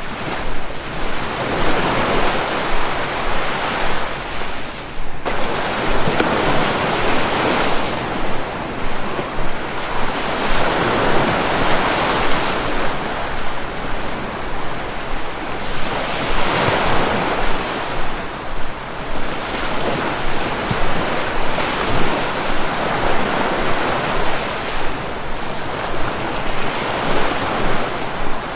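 Sea waves breaking and washing ashore, rising and falling in surges every few seconds. One surge cuts off abruptly about five seconds in.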